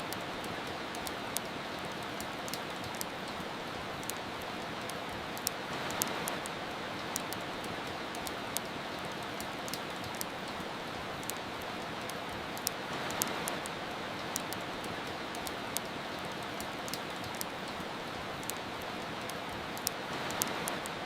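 Steady rain with frequent sharp crackles and pops of a wood fire over it. The rain swells slightly about every seven seconds.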